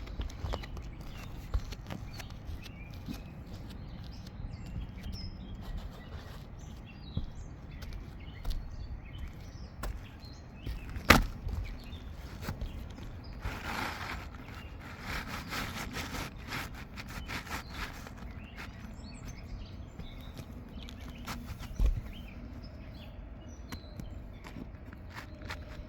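Outdoor background noise with faint bird chirps. There are a few sharp knocks, the loudest about halfway through and another late on, and a short stretch of rustling and scuffing soon after the first knock.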